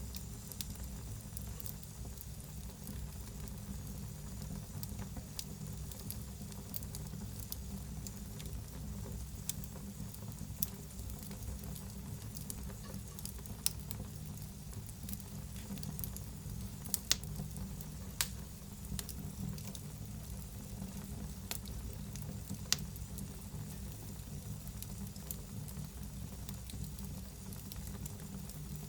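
Wood fire in a fireplace burning with a steady low rumble, crackling and hissing, with irregular sharp pops, a few louder ones through the middle.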